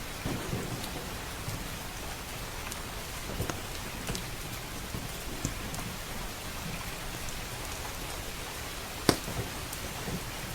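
Steady rain with a wood fire crackling over it: a few sharp pops, one about three and a half seconds in, another near four seconds, and the loudest about nine seconds in.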